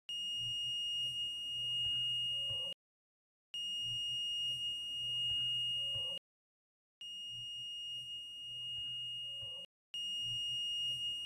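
Digital multimeter's continuity beeper sounding four times, each a steady high tone of about two and a half seconds with short silences between. Each beep marks continuity on the cable wire being tested.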